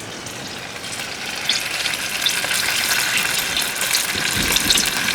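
Burgers sizzling as they fry, a crackling hiss with many small pops that grows louder about a second and a half in.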